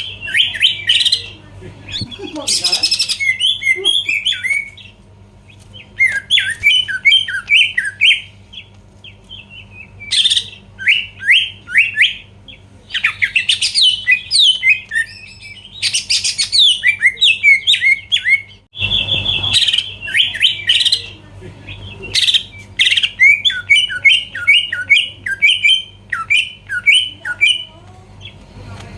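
Cucak ijo (green leafbird) singing in fast, varied bursts of sweeping chirps and whistles, phrase after phrase with short pauses between. A steady low hum runs underneath.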